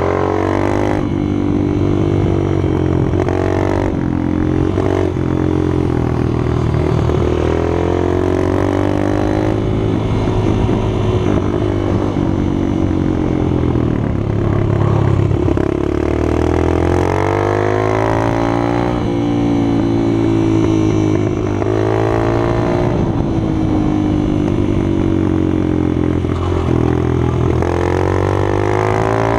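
Minibike engines running, revving up and down over and over, with more than one engine heard at once: a steady low drone under another engine whose pitch keeps rising and falling.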